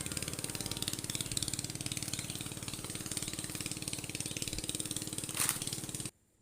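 A small engine running steadily with a fast even pulse, which cuts off suddenly near the end.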